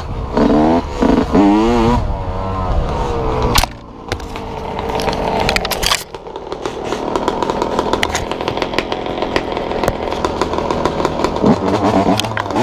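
Dirt bike engine revving in quick rapid blips, then running steadily under way with many sharp clicks and rattles over it.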